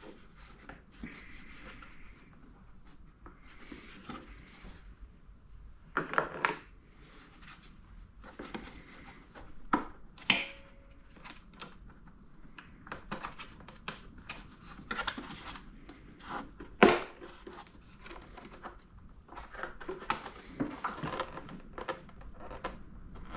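Scattered metal clinks, clicks and short scrapes of hand tools working on the compressor's parts, with a few sharper knocks about six, ten and seventeen seconds in.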